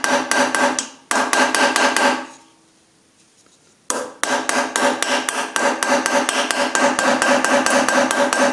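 Hammer driving a small chisel against a damaged screw remnant in an aluminium casting, rapid light taps, several a second, to turn the screw out, each strike ringing through the metal. Two short runs of tapping, a pause of about a second and a half, then a long unbroken run.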